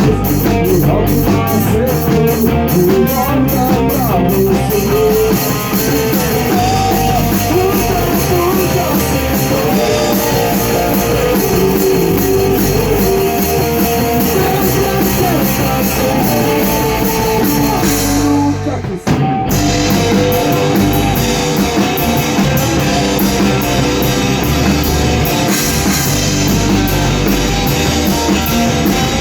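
Rock band playing a song in rehearsal: guitar and drum kit together at full level, with a quick stop about nineteen seconds in before the band comes straight back in.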